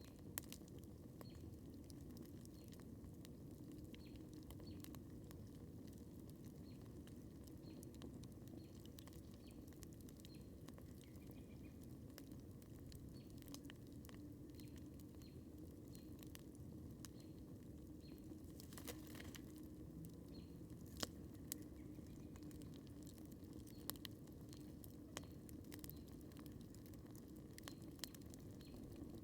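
Wood campfire crackling faintly, with scattered sharp pops over a low steady rumble; a few louder pops come about two-thirds of the way in.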